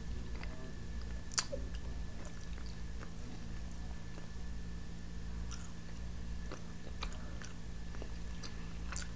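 A person chewing food close to the microphone while eating pizza and chicken wings: soft, scattered mouth clicks, one a little sharper about a second and a half in, over a faint steady hum.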